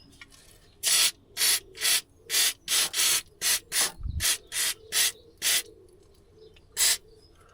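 Aerosol can of WD-40 sprayed in about a dozen short hissing squirts, roughly two a second, with one last squirt near the end. It is being sprayed onto a seized track rod end to free it.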